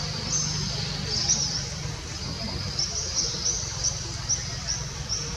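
A bird calling with short high chirps, coming about three a second in the second half, over a low steady background noise.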